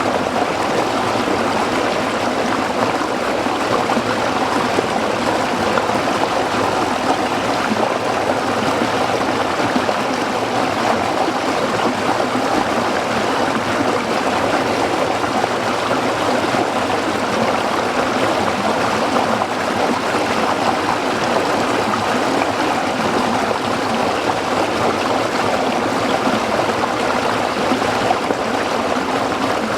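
A small stream babbling and trickling over rocks, a steady, even rush of water.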